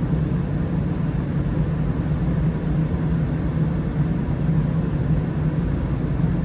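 Gas furnace running with its burners lit: a steady low rumble and hum.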